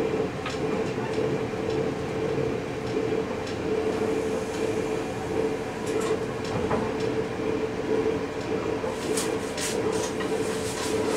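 Passenger train running along the track, heard from the driver's cab: a steady drone with a constant low hum over rolling noise. Occasional sharp clicks come through, with a cluster of them near the end.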